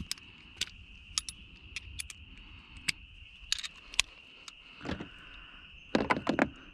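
Metal hand tools clinking: a socket extension and 10 mm socket being handled and fitted, with scattered sharp clicks and a quick run of clicks near the end. A faint steady high whine sits underneath.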